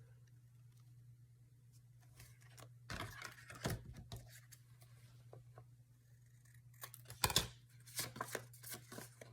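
Scissors snipping paper to cut a tag shape, in short bursts about three seconds in and again for the last couple of seconds, over a low steady hum.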